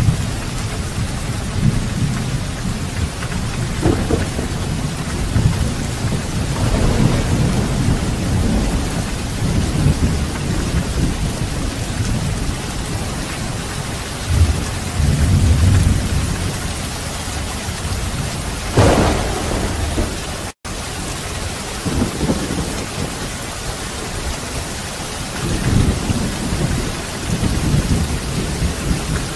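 Heavy rain falling steadily, with repeated low rolling rumbles of thunder and a sharper thunderclap about two-thirds of the way in. The sound cuts out for an instant just after the clap.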